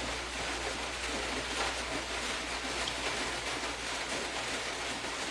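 Steady, even background hiss with a low hum underneath; no distinct event stands out.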